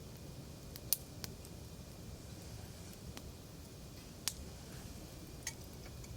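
Wood campfire crackling, with sharp pops at irregular intervals over a low, steady rumble; the loudest pop comes about a second in and another just past four seconds. Popping like this is typical of firewood that is not fully dry.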